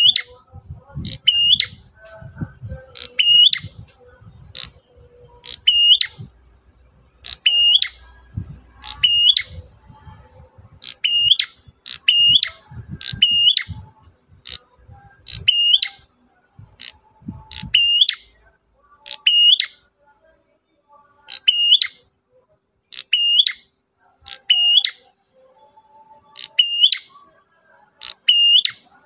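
Prenjak merah calling: one sharp chirp repeated roughly every one to one and a half seconds, now and then in quick pairs, for use as a trapping lure. Low rumbling thumps sit underneath for the first two thirds or so.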